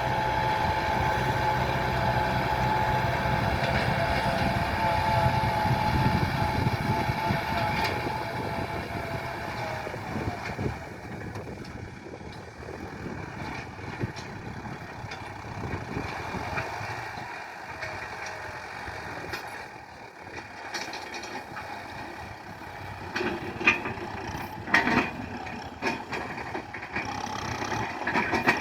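Tractor diesel engine running steadily, loud for about the first ten seconds and then quieter, with several sharp knocks near the end.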